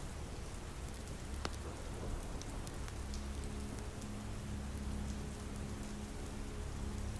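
Steady soft rain with a low rumble beneath it and a few sharp clicks. From about three seconds in, quiet held notes of an ambient pad come in.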